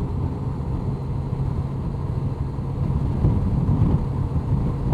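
2002 Honda CBR1100XX Blackbird's inline-four engine running steadily under way, with road and wind rumble, getting a little louder about three seconds in.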